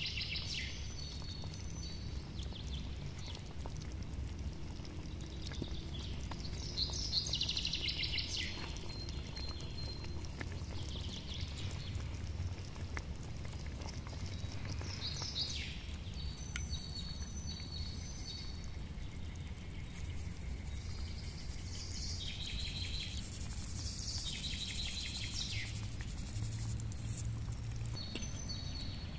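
Songbirds calling and trilling in short phrases every several seconds, over a steady low rumble.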